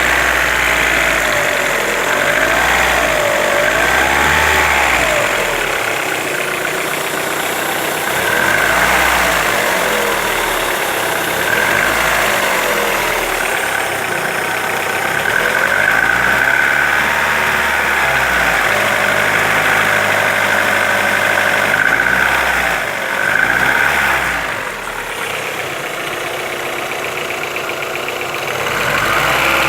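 Car engine running, its revs rising and falling repeatedly as it is blipped from idle. The engine has a knock whose source is being sought.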